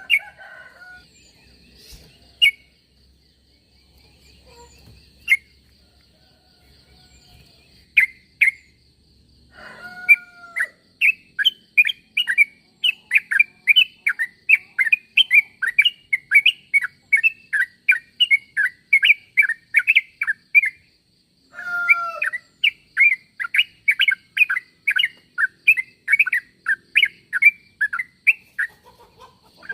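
Yellow-vented bulbul (trucuk) song: a few scattered notes, then two long runs of quick, bubbly chattering notes at about three to four a second, each run opening with a downward slurred note, with a short break between them.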